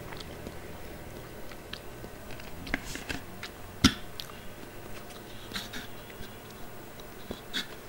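Close-miked chewing of a marshmallow: soft, sticky mouth clicks and smacks, with one sharper click about four seconds in.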